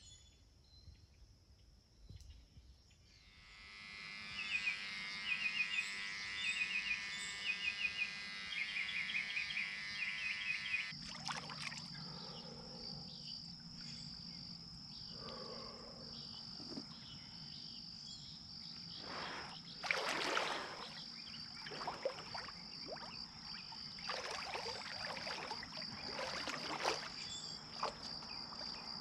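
Woodland wildlife ambience: a steady high-pitched insect drone with repeated chirping calls over it, starting after a few quiet seconds.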